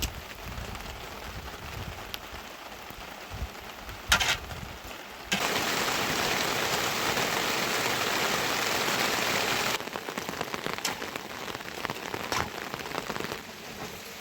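Rain falling, with scattered drops striking close by. About five seconds in, a louder, denser downpour starts suddenly and cuts off just as suddenly some four seconds later.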